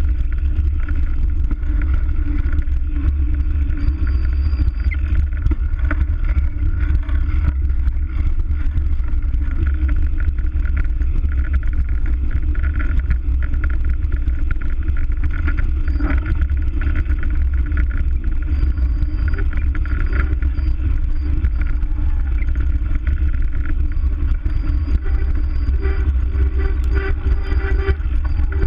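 Steady wind rumble on a bike-mounted action camera's microphone while cycling, with many small knocks and rattles from the bicycle going over the ground.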